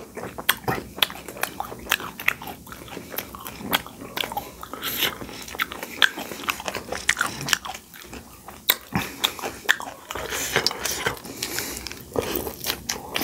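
Close-up eating sounds from two people eating pani puri and momos: wet chewing and mouth sounds with many irregular crisp crunches.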